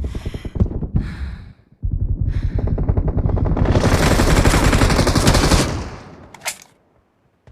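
Video game automatic gunfire: a rapid burst, a brief break, then a longer sustained burst of rapid shots that stops about six seconds in, followed by one more sharp bang.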